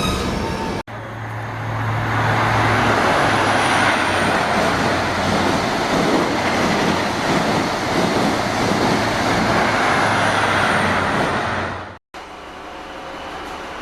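A large road vehicle running past. It begins with a low engine hum, then gives a loud, steady rush of noise that fades away before cutting off abruptly.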